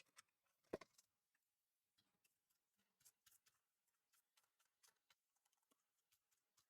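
Near silence with faint scattered clicks and ticks from a PS4 Slim heatsink being handled and cleaned of dust. One click about three-quarters of a second in is a little louder.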